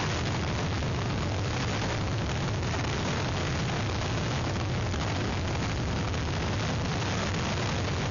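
Hurricane wind blowing hard over an outdoor webcam microphone: a steady rush of noise with a heavy low rumble.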